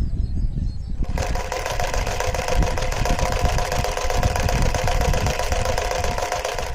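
Homemade three-cylinder triangle piston engine, driven by an electric motor, running with a fast, continuous mechanical rattle of its pistons and crankshaft. A steady motor whine joins the rattle about a second in.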